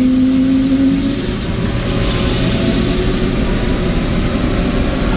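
Helicopter turbine engine and rotor running loudly. A strong low hum drops away about a second in, and a high, steady whine comes in partway through.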